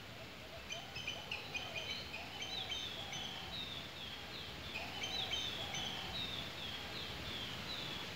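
Birds calling in two runs of repeated chirps and short falling whistles, over a steady outdoor background hiss.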